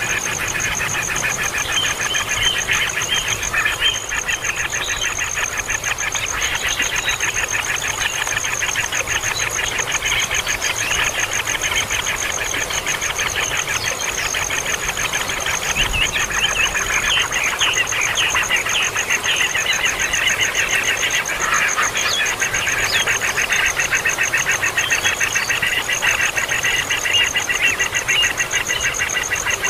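Nestling birds giving continuous rapid, high begging chirps, a constant racket. A steady fast-pulsing high trill runs underneath throughout.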